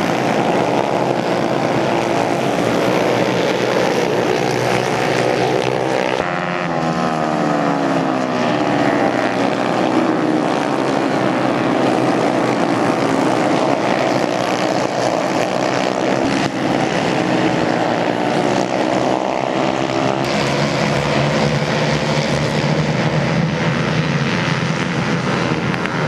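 Racing motorcycle engines running hard around a circuit, a steady, loud drone; about six seconds in, one bike passes close, its engine note falling as it goes by.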